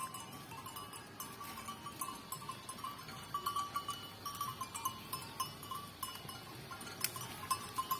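Murrah buffalo grazing: irregular tearing and crunching of grass as it feeds, over a steady ringing tone that swells and fades unevenly, with one sharper click about seven seconds in.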